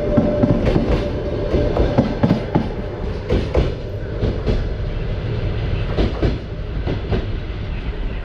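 Passenger train cars rolling past at low speed, their wheels clacking over the rail joints in an uneven rhythm over a steady rumble. The clacks thin out and the sound eases as the last car passes and the train pulls away.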